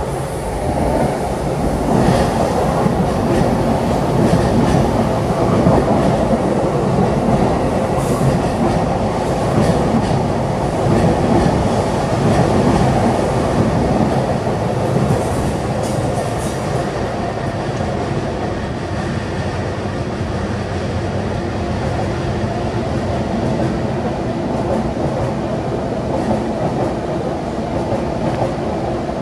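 JR Chuo Line E233-series electric commuter trains passing close by on both tracks: a steady rumble of wheels on rail with some clatter, louder in the first half.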